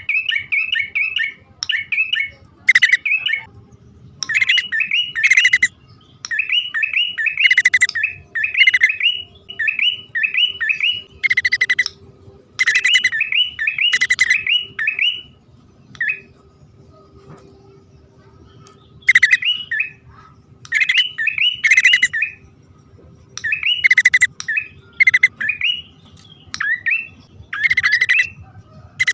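Prenjak (prinia) birds calling, male and female: fast runs of bright chirps broken by short gaps, with sharp louder notes mixed in and a lull of a few seconds about halfway through.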